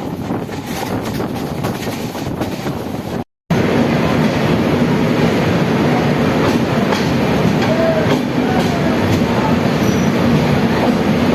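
Passenger train running, a steady rumble of wheels on the rails. It breaks off for a moment about three seconds in and comes back louder, with faint squeals later on.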